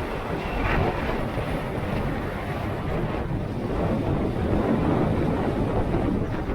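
Wind rushing over the microphone together with motorcycle engine and road noise, heard steadily while riding.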